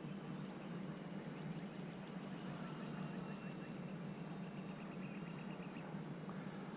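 Faint, steady hum of a small RC plane's electric motor and propeller in flight at a distance, with faint bird chirps.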